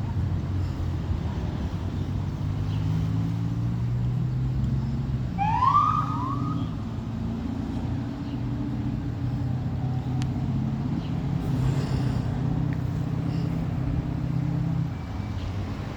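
Emergency vehicles idling at a crash scene: a steady low engine hum, which drops away near the end, and one short rising siren whoop about six seconds in.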